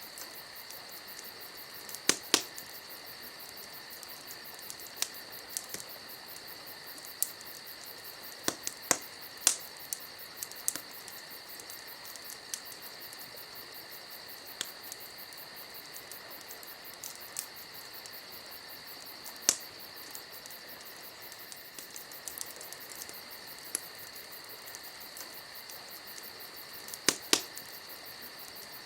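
Crickets chirring steadily and fast, with sharp pops and crackles from a burning wood campfire, a handful of them, loudest about two seconds in and near the end.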